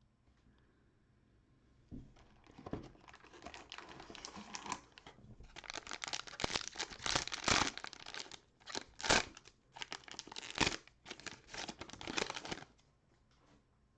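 Cellophane wrapper of an NBA Prizm cello card pack crinkling and tearing as it is opened by hand, starting about two seconds in and stopping near the end.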